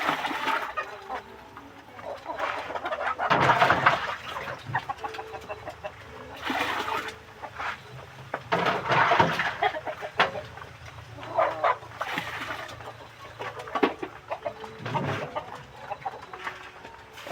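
Flock of kampung chickens clucking and squawking, with loud bursts of calling every few seconds.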